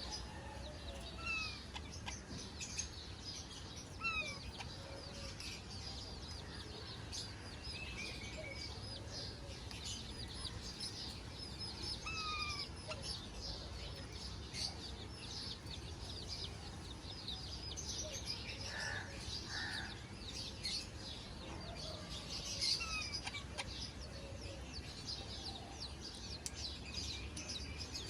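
A group of parrots chirping and chattering in a dense run of quick high notes, with a short falling whistle call repeated every couple of seconds.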